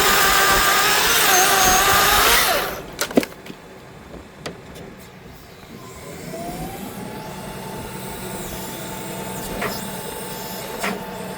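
Small chainsaw with a 16-inch bar running at full throttle through wood, then the throttle drops off suddenly about two and a half seconds in. A few sharp knocks follow, and a quieter steady engine tone rises and holds for the rest of the time.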